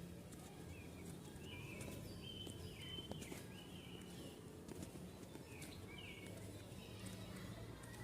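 Small birds chirping in short, repeated notes over a steady low outdoor background hum.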